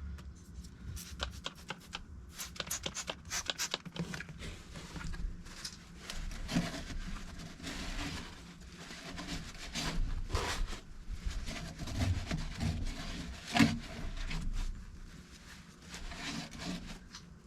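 A steering wheel being scrubbed and wiped clean by hand: an uneven run of rubbing strokes mixed with scattered small clicks and knocks.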